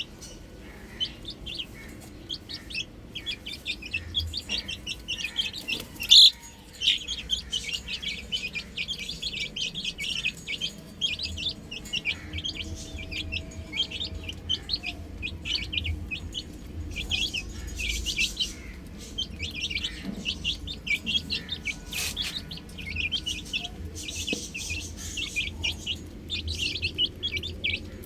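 Baby chicks peeping continuously, many short high-pitched peeps overlapping in quick succession. A single sharp knock about six seconds in is the loudest moment.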